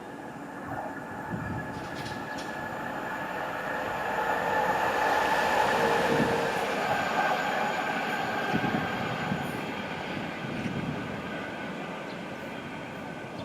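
A train going through the station, its rumble and several steady tones swelling to their loudest about halfway through, then slowly fading.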